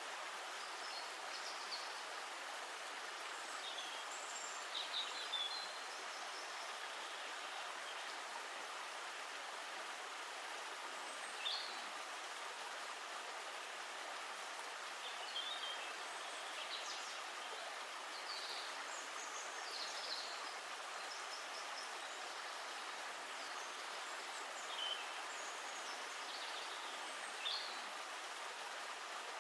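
Steady rush of flowing water, with short high bird chirps scattered every few seconds.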